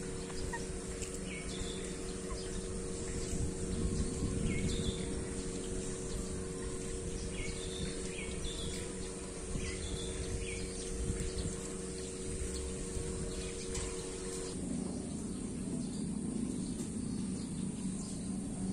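Birds giving several short chirps over a steady outdoor background with a low hum and a high steady hiss. The background changes abruptly about three-quarters of the way through.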